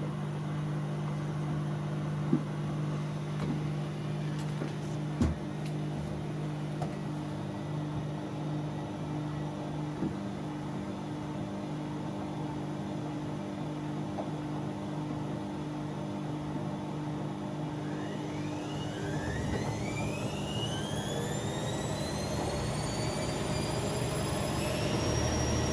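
Bauknecht WA Aquaton 1400 washing machine running a 60 °C cottons cycle. There is a steady low hum with a couple of sharp knocks in the first few seconds. About three-quarters of the way through, the drum motor's whine rises steeply in pitch as the drum speeds up into a spin.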